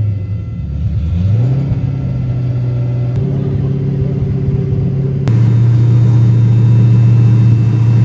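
Car engine running at a steady idle, its revs dipping and picking back up about a second in. The tone changes abruptly twice.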